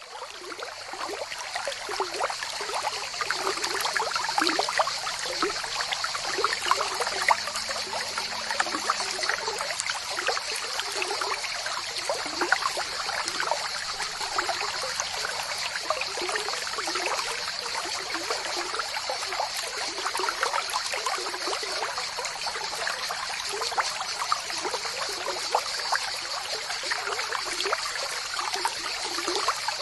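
Water pouring and splashing steadily, as from the outlet of a small Stirling-engine-driven water pump; it builds up over the first couple of seconds, then runs on evenly with many small spatters.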